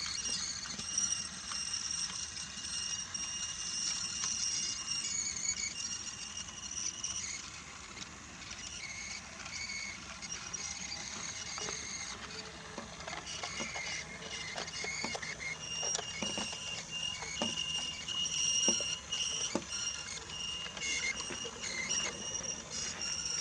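Motorised Brio toy train running on wooden track: a high, steady whine from its small motor and gears, with light clicks from the wheels over the track joints, mostly in the second half.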